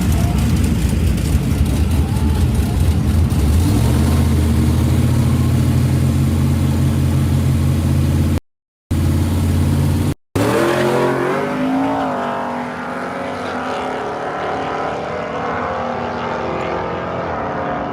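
Drag-racing pickup trucks' V8 engines at full throttle, one of them a 454 big-block, running hard down the strip. The note climbs in pitch through the gears and then grows quieter as they pull away. The sound cuts out twice briefly near the middle.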